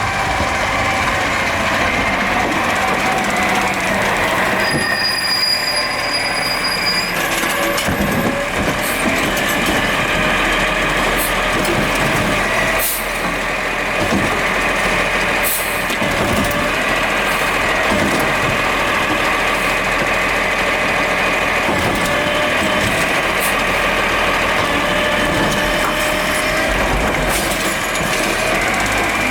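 Garbage truck running and working, with a steady whine and scattered clanks and knocks.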